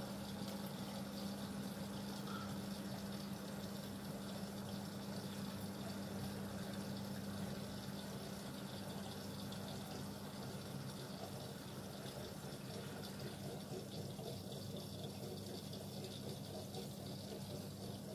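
Miele W1 WKF 130 WPS washing machine mid-programme: a steady rush of water running in the machine over a steady low hum.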